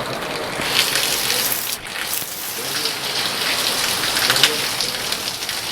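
Heavy rain falling, a dense steady hiss of drops that grows heavier about a second in.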